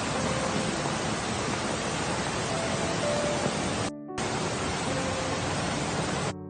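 Steady loud rushing hiss of noise, with soft piano music faintly under it; the hiss drops out for a moment about four seconds in and cuts off near the end.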